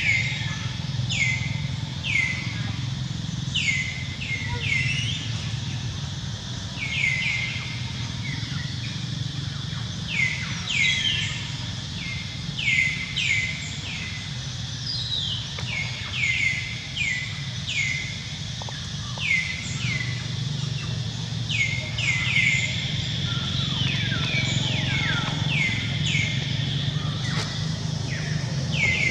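Birds chirping: many short calls, each sweeping quickly downward, coming in quick runs of a few at a time, over a steady low rumble.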